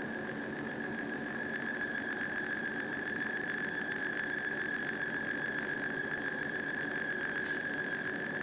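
Metal lathe running through a facing cut, a steady high-pitched squeal held over the hum of the machine, with a faint click near the end.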